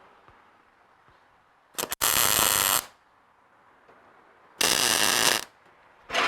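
Two short MIG tack welds, each an arc crackling and buzzing for about a second, the second starting about two seconds after the first ends, tacking a bracket onto a bumper frame mount.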